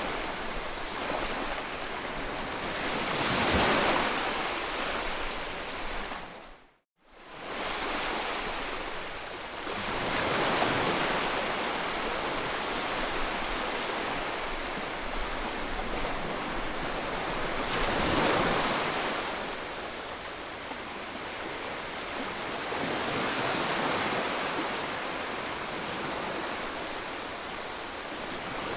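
Sea waves breaking on the shore, the surf noise swelling and easing about every seven seconds. Just before seven seconds in, the sound fades out to silence and comes straight back.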